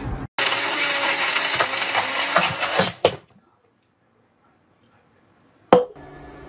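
A countertop blender running loudly, then stopping abruptly about three seconds in. Near the end a sharp click is followed by a steady low hum.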